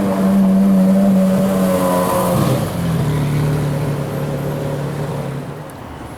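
Porsche Carrera GT's V10 engine running hard at a steady high note, then an upshift about two and a half seconds in drops the pitch. It holds the lower note and fades away toward the end.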